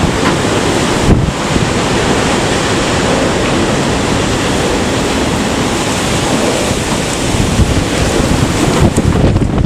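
Typhoon-strength wind blowing in loud, swelling gusts and buffeting the microphone.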